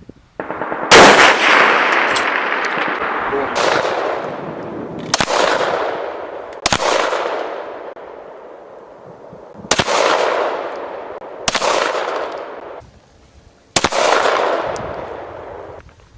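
Rifle shots, about seven sharp reports at uneven intervals of one and a half to three seconds, each trailing off in a long rolling echo.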